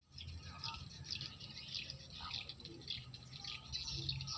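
Swiftlet calls: many rapid, overlapping high chirps and twitters, the sound used to lure edible-nest swiftlets.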